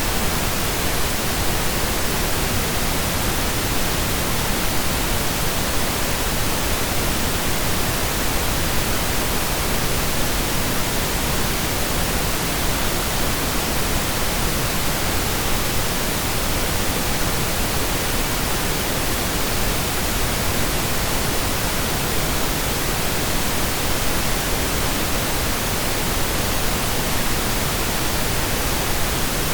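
Steady synthesised pink noise: an even, unchanging hiss spread across the whole range, like rain or a waterfall, with no events or changes.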